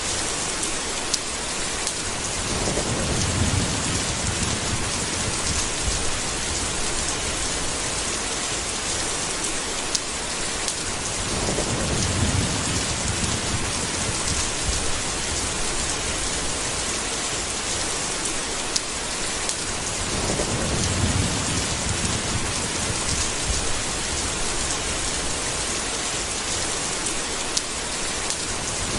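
Steady heavy rain, with rolling thunder rumbling up and dying away three times, about every nine seconds, and a last rumble starting near the end.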